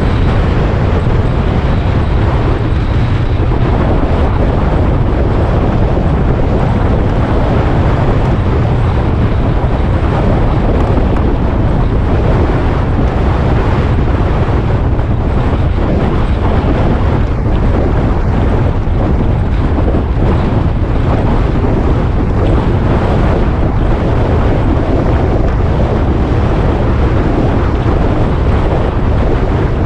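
Wind buffeting the microphone over a riding motorcycle's engine and road noise: a steady, loud rush with no change.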